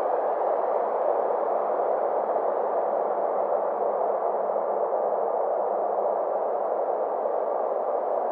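Synthesized space ambience: a steady drone of filtered noise centred in the mid range, with faint tones slowly drifting up and down above it.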